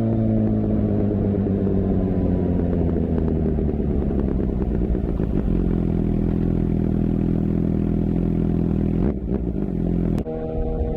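Suzuki GSX-R750's inline-four engine running through its exhaust, the revs dropping and settling into a steady idle. About nine seconds in it falters briefly, and near the end the tone changes suddenly to a smoother, steadier hum.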